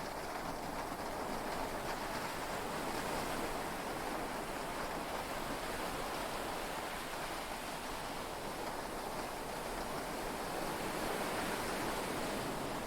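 Heavy rain and sea waves heard from inside a yacht cabin, blending into an even, unbroken hiss.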